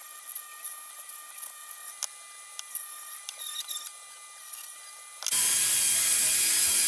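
Light clicks and scraping of a tool being worked into a narrow metal tube, then a small power tool with a bit switches on suddenly about five seconds in and runs steadily and loudly.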